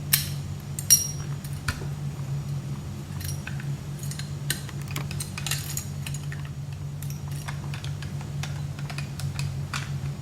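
Steel parts of a Fedorov Avtomat rifle clicking and clinking irregularly as they are handled and fitted together during reassembly, the sharpest clicks in the first second, over a steady low hum.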